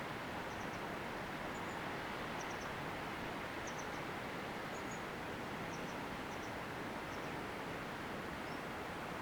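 Steady wind noise in the open countryside, with faint, short, high bird chirps scattered through it in twos and threes.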